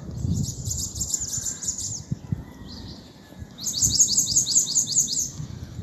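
A songbird singing two runs of rapid, high, repeated down-slurred notes: the first lasts about two seconds, the second, of about nine notes, begins about three and a half seconds in.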